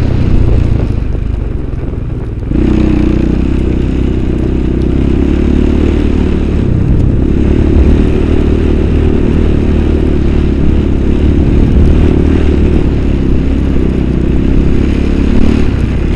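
Motorcycle engine running under way. It eases off about a second in, then picks up sharply about two and a half seconds in and holds a steady pull.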